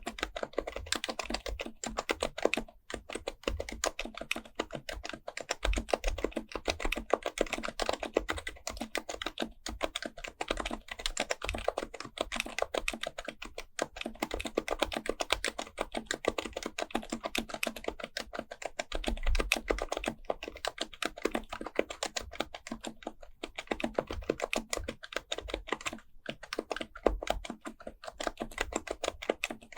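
Continuous fast typing on an HHKB Professional Type-S keyboard with silenced Topre capacitive switches. It is a dense run of soft keystrokes, broken by a few brief pauses.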